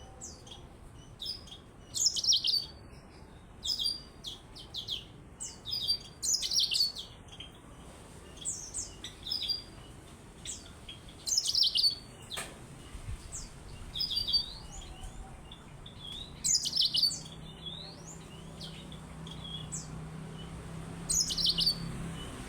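Yellow-fronted canary (Mozambique canary) singing: short, high, twittering phrases repeated every second or two. A low steady hum comes in during the last third.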